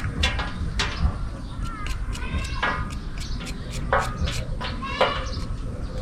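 Short, repeated bird calls, with many quick clicks among them, over a steady low background noise.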